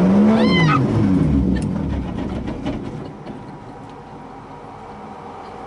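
Nissan 240SX drift car's turbocharged 2JZ-GTE inline-six revving hard, peaking just after the start, then dropping off as the throttle is released, settling to a low rumble by about three seconds in.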